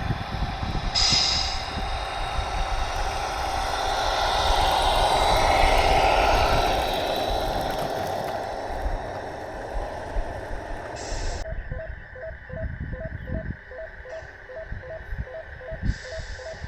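A vehicle running, swelling to its loudest about halfway through and then fading, over a low rumble. From about two-thirds of the way in, a steady electronic beeping sounds, two or three beeps a second.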